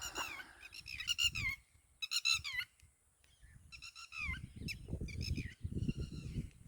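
Birds calling repeatedly in short clusters of shrill calls that slide down in pitch, over a low, irregular rumble that grows in the second half.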